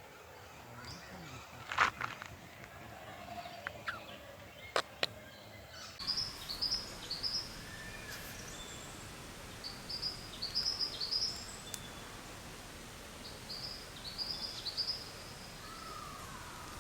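A few sharp knocks in the first seconds, then a bird calling: a phrase of three or four quick, high, falling chirps, repeated three times a few seconds apart.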